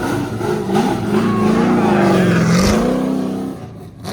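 Drift car's engine revving, its pitch wavering up and down, then dying away about three and a half seconds in.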